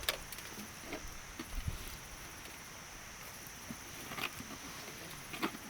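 Wood fire crackling, with a few sharp pops and soft knocks, over a steady high chirring of crickets.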